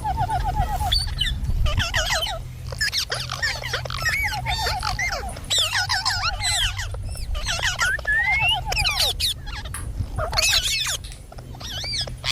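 Parrots chattering and calling: many quick overlapping chirps and squeaky whistles, with a short rippling trill repeated several times, over a steady low hum.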